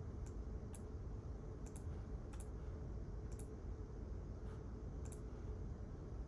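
Sparse, irregular keystrokes on a computer keyboard, about nine sharp clicks, over a steady low room hum.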